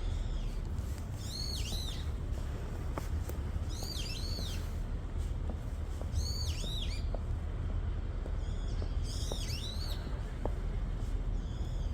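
A bird calling four times, each time a short phrase of high, arched notes, over a steady low rumble.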